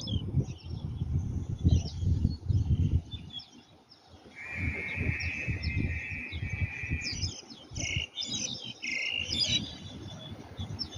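Birds chirping and twittering in many short, quick calls, with some stretches of steady chirring, over a low, uneven rumble.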